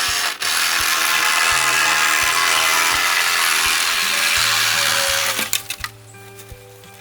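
Electric chainsaw running and cutting bamboo for about five seconds, then stopping.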